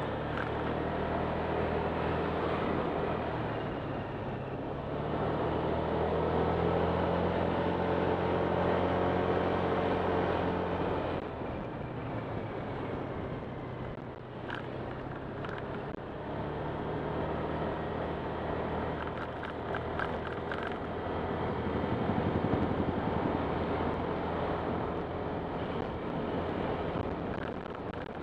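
Honda Click 125 scooter's single-cylinder engine running under way, with road and wind rush. The engine note eases off about eleven seconds in and picks up again a few seconds later.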